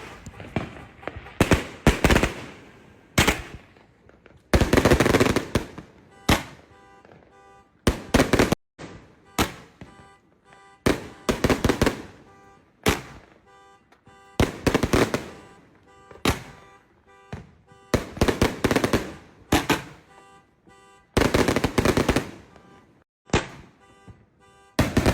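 A 110-shot consumer firework cake firing shot after shot. Sharp bangs come about once a second, some in quick pairs or clusters, each followed by a fading tail.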